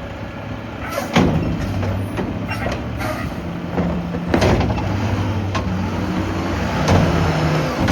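Mack LR garbage truck running at a collection stop: a steady diesel engine hum with several sharp bangs and clanks as trash is loaded, the loudest about a second in and near the end.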